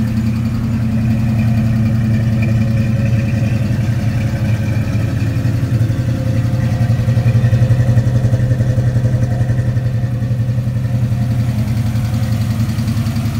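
Fox-body Mustang GT's 5.0-litre (302) small-block Ford V8 running at a fast idle just after a fresh start, with a steady, even exhaust pulse that is a little louder in the middle.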